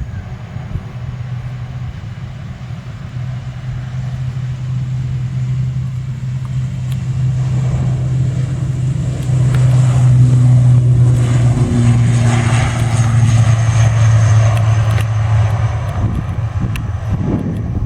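Airliner engines passing: a steady low drone that grows louder, peaks from about ten to fifteen seconds in, then eases a little.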